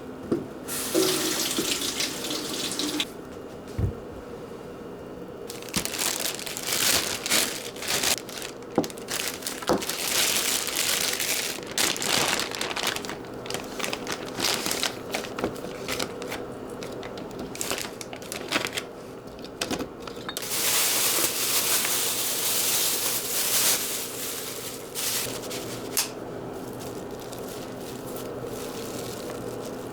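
Kitchen tap water running into a sink in spells, between many clicks and knocks of things being handled.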